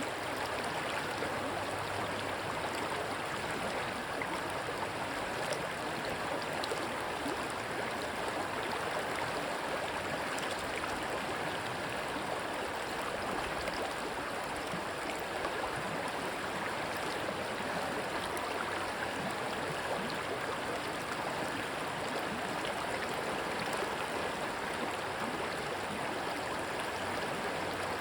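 Rushing stream water, a steady even rush with fine splashing.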